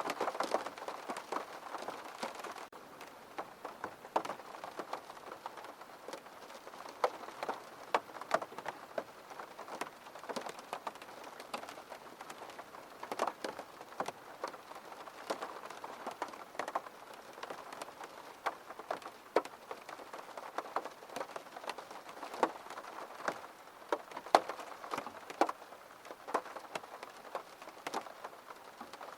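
Steady rain with many single drops tapping at irregular intervals, a little heavier for the first couple of seconds.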